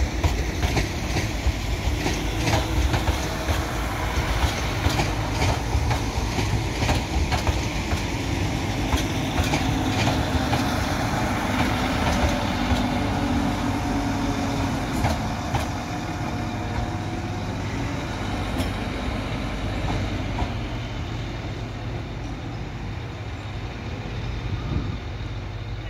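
Northern Class 195 diesel multiple unit moving past with its diesel engines running and its wheels clicking over rail joints and pointwork. The clicking thins out and the sound gradually fades over the second half as the train draws away.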